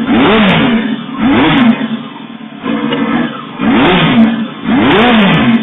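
Yamaha YZF1000 inline-four with a Yoshimura exhaust, its dB killer insert removed, being revved in a series of quick throttle blips. The pitch rises and falls with each blip.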